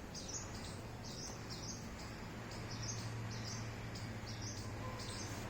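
Small birds chirping: short, high chirps repeating about three times a second, over a faint steady low hum.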